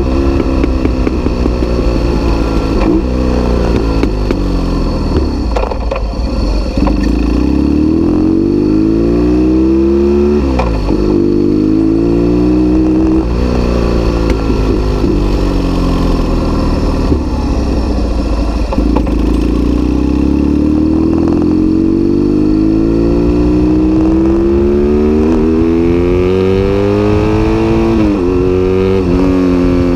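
BMW R1200S boxer-twin engine through an SC-Project aftermarket exhaust, ridden on the road: the revs climb in long pulls and drop suddenly at each gear change, about ten seconds in, again a few seconds later, and near the end, easing and rising again in between.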